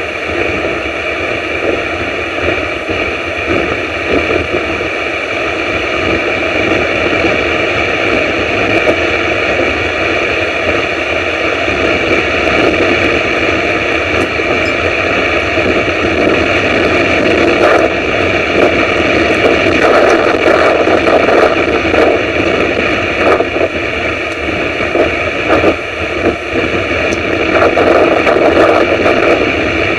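Storm wind and rain blowing on an outdoor camera microphone: a loud, steady rushing noise that swells and eases with the gusts, with scattered short ticks near the middle.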